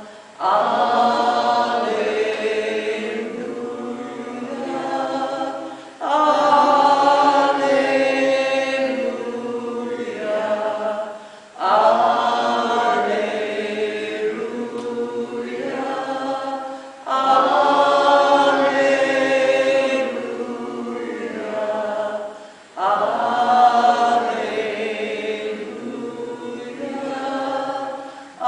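A group of voices chanting together, one sung phrase repeated over and over, each starting strongly and fading away, about every five and a half seconds.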